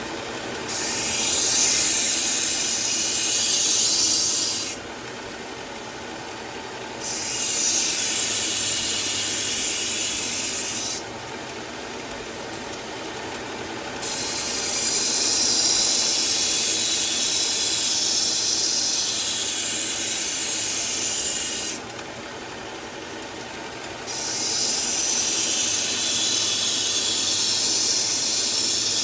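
Kitchen knife blade ground against a running 120-grit sharpening belt: four grinding passes, each a few seconds long with the longest near the middle, a hissing scrape over the steady run of the belt machine and air filter. The passes are grinding in a new edge on a dull knife that has not yet formed a burr.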